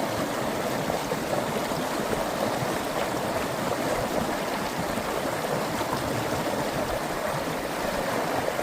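Ice-cold mountain water rushing steadily under pressure into a hydroelectric project's dammed collection pool: a continuous, even rush of flowing water.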